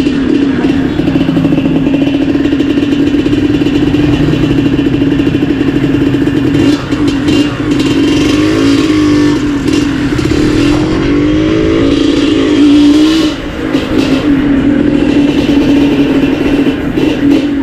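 Yamaha DT125's two-stroke single-cylinder engine running through an MCF tune pipe (an expansion-chamber exhaust). It holds a steady note, and around the middle the revs swing up and down a few times, followed by a brief dip.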